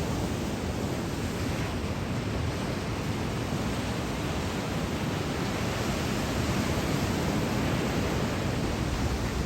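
Ocean surf from a typhoon swell breaking in a steady wash, with wind noise on the microphone.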